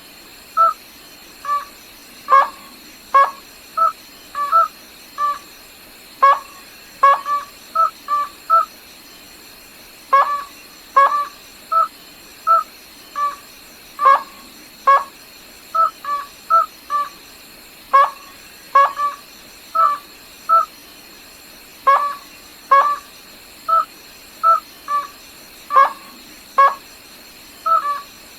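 Gà nước họng trắng crake calling: short, sharp notes repeated about once or twice a second in loose runs, without a break.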